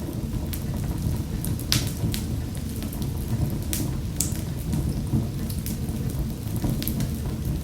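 Wood fire crackling in a fireplace: sharp pops and snaps scattered over a steady low rumble of the flames, with the loudest pops about two and four seconds in.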